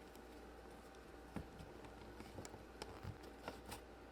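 Faint, scattered soft taps and clicks from play dough being rolled out and handled on a tabletop, over a low steady room hum.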